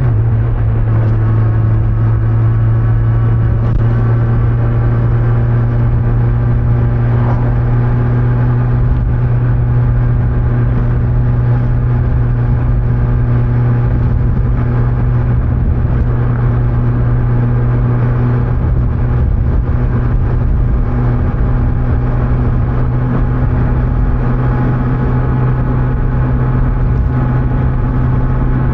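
Kawasaki Z900 inline-four engine with stock exhaust running at a steady cruise on the move, heard from the rider's back with wind and road noise. Its pitch holds nearly constant throughout.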